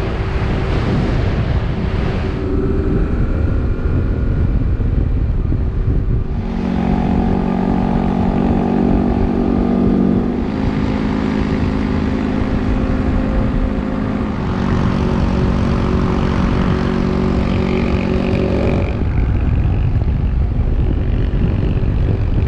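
Motorcycle engine running at a steady cruise with heavy wind and road rumble; the engine note shifts abruptly a few times.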